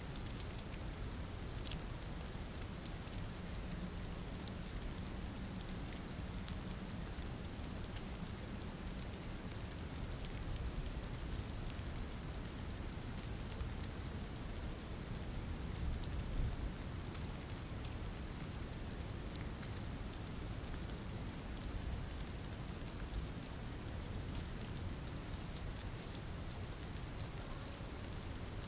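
Steady rain falling, with fine drop ticks over a low rumble that swells briefly about halfway through.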